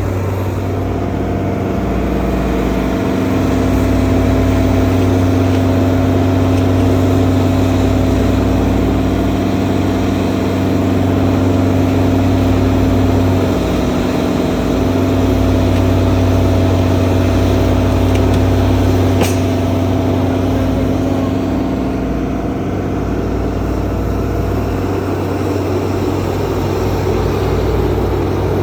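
Large engine running at a steady speed, a constant low drone whose pitch wavers briefly about halfway through.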